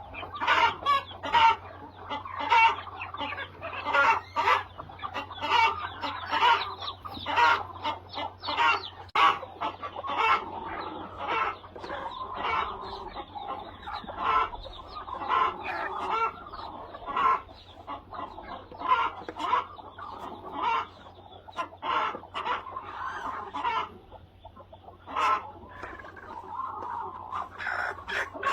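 A flock of egg-laying hens clucking, with many short calls overlapping one another.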